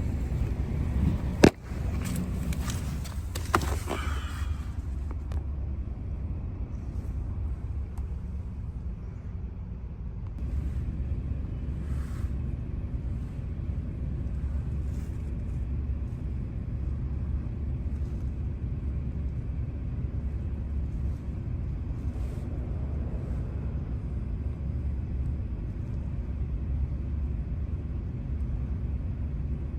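A loud bang about a second and a half in and a lighter knock about two seconds later, over a steady low rumble.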